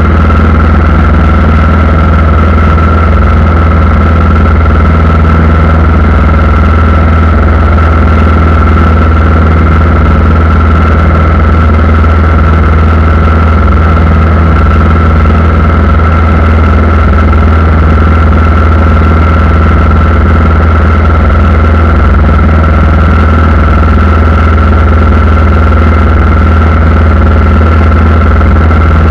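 Aircraft engines running steadily, a loud constant low hum with a steady high-pitched whine over it.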